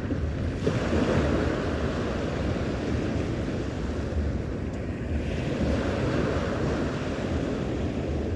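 Sea surf washing onto the shore, a steady rush that swells about a second in and again around five to six seconds, with wind rumbling on the microphone.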